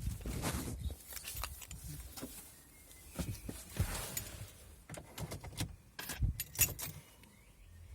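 Scattered clicks, knocks and rustling of handling around a car, with two sharp knocks a little after six seconds in.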